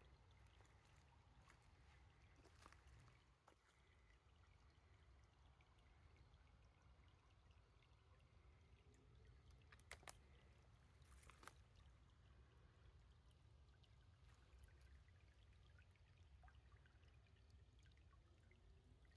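Near silence: faint outdoor ambience with a low rumble, broken by a few soft clicks about halfway through.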